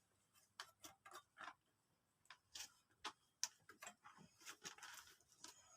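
Faint, scattered small clicks and light knocks, with a brief soft rustle near the end: hands handling the plastic and metal parts of an opened bread maker.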